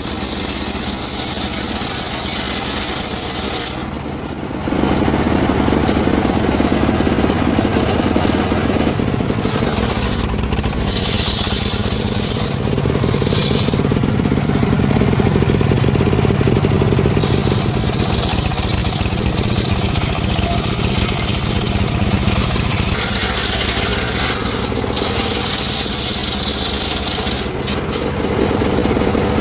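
Engine-driven wood saw running steadily, with a higher cutting noise that comes and goes several times as timber is sawn.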